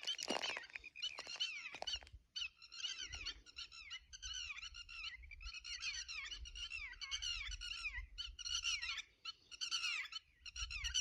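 Rapid high chirping calls, each sliding down in pitch, coming in bursts with short breaks, over a low rumble.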